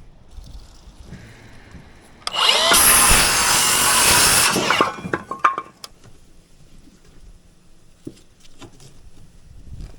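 A power tool cuts in one run of about two and a half seconds, starting about two seconds in and spinning up at the start. Quieter clicks and knocks follow.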